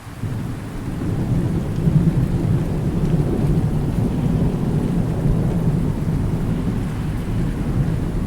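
Thunder rolling over steady rain: a long, low rumble that builds within the first second, with the hiss of rain beneath it.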